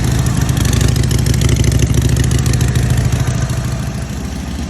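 Harley-Davidson V-twin engine running through its stock exhaust pipes, a steady idle that eases off slightly near the end. The note is subdued, "not very Harley."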